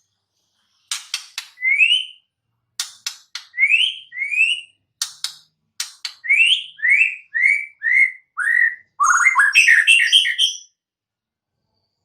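White-rumped shama singing: sharp clicks followed by short whistled notes that slide upward, a string of about a dozen, ending in a fast jumbled run of mixed notes.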